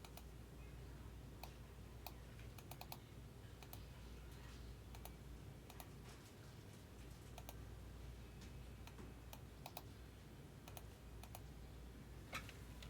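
Faint, scattered light clicks, some in quick runs of two or three, over a low steady hum.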